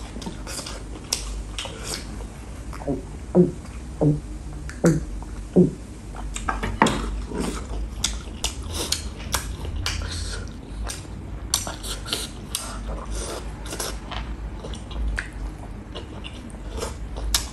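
Close-miked eating: chewing and wet mouth clicks and smacks as a man eats rice and beef by hand, with a cluster of short pitched mouth sounds about three to six seconds in.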